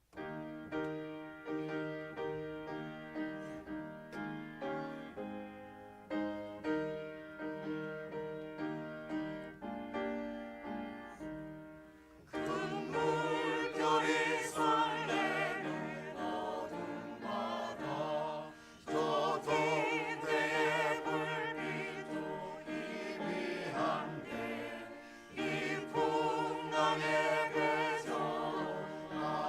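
A hymn in performance. It opens with a piano introduction of struck, fading notes, and about twelve seconds in a choir comes in singing the hymn with vibrato over the accompaniment.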